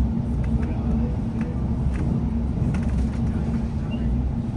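South Western Railway Class 701 'Arterio' electric train running: a steady low rumble with a constant hum and a few faint clicks.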